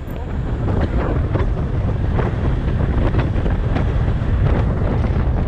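Wind buffeting the microphone while riding a motorcycle, a dense steady rush with the bike's running and road noise underneath.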